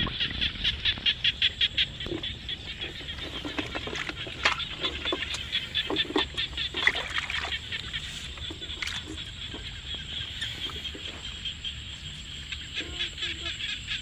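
A chorus of rapid, high-pitched animal calls, pulsing several times a second and loudest in the first couple of seconds, with a few scattered knocks.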